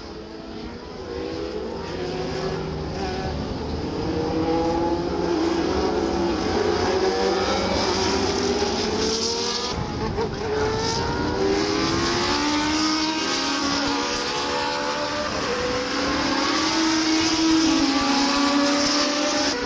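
Historic Formula 1 racing engines running hard on track, several cars at once, each engine note rising and breaking off as it shifts up, growing louder over the first few seconds.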